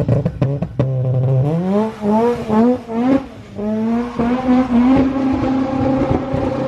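Supercharged Honda Civic EP3 accelerating hard: the engine note climbs in three quick pulls with a drop in pitch between each as it shifts up, then holds a steady higher note.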